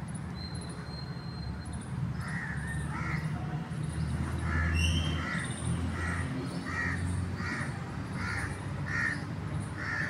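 A bird giving a run of about ten short, harsh calls, repeating roughly every half second or so, starting about two seconds in. Faint high-pitched chirping from other birds runs underneath.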